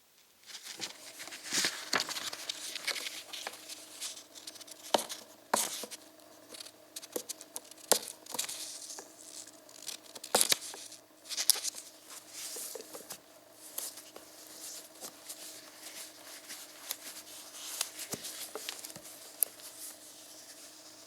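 Close-up handling noise: irregular crinkling and tearing, like plastic or paper being worked by hand, with scattered sharp clicks and knocks over a faint steady hum.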